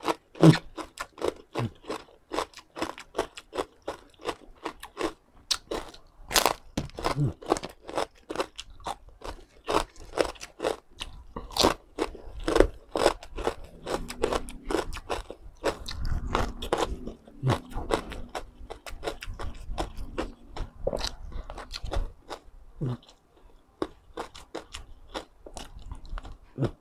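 Close-up crunching and chewing of crispy deep-fried pork skin: many sharp, irregular crunches as the hard crackling is bitten and chewed.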